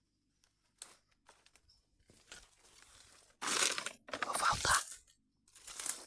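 Crunching and rustling of dry leaves and twigs underfoot, in irregular bursts, the two loudest about three and a half and four and a half seconds in.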